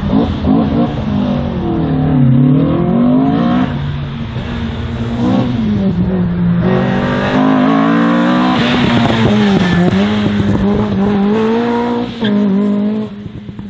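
Race car engine revving hard through an autoslalom course, its pitch dropping and climbing again as the car brakes and accelerates between the gates. The engine note holds high for a few seconds later on, then drops off sharply near the end.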